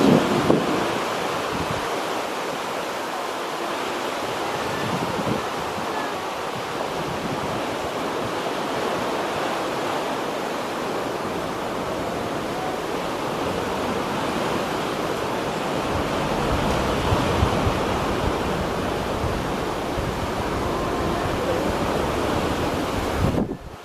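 Choppy sea washing steadily, with wind gusting across the microphone, its low rumble heavier in the second half.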